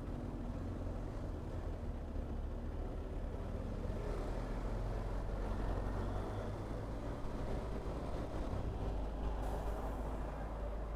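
Vehicle engines running in a slow traffic jam among trucks: a steady low drone of engines with road noise.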